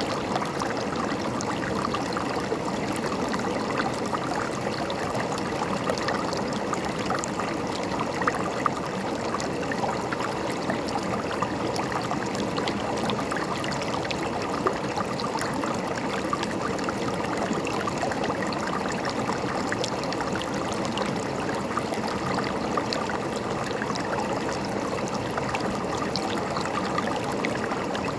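River water flowing steadily over rocks, a constant gurgling rush with small splashes now and then.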